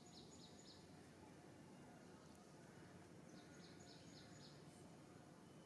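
Near silence: faint outdoor background hiss, with a small bird giving a quick series of four or five high chirps twice, at the start and about three and a half seconds in.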